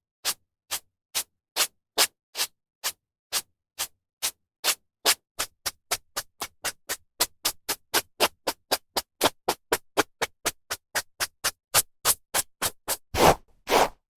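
Hairbrush strokes through hair: a run of short brushing swishes, about two a second at first and quickening to about four a second in the middle. Near the end come a couple of louder, longer strokes.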